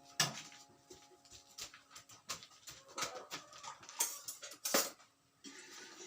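Irregular knocks and clatters of household objects being handled, with faint background music underneath.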